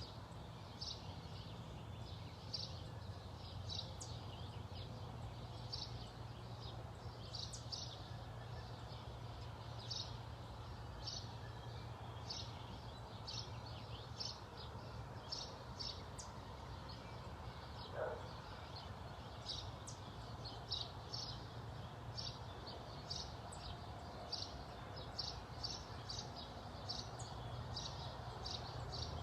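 Small birds chirping: short, high chirps repeating one or two times a second, over a steady low hum.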